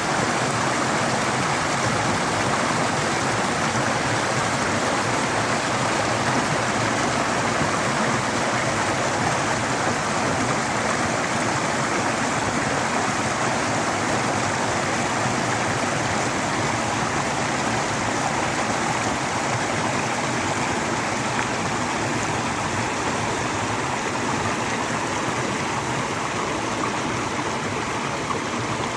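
A stream of water running steadily, an even unbroken sound of flowing water.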